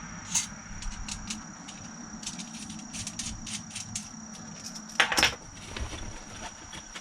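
Light clicks and ticks of a small screwdriver and its bits being handled, with a louder short rattle about five seconds in. A faint steady high tone runs underneath.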